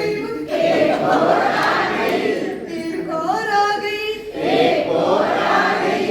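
A group of voices chanting and singing a Hindi counting rhyme together, many voices overlapping.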